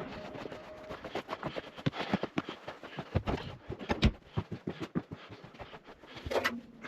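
Irregular knocks and clicks, several a second, with the sharpest knock about four seconds in.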